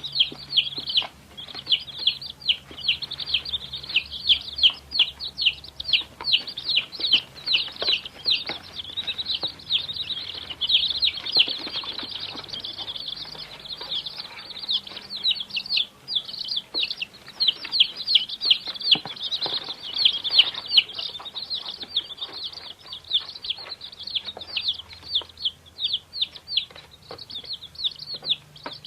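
Baby chicks peeping without pause: many short, high, falling cheeps, several a second and overlapping, as from a group of chicks.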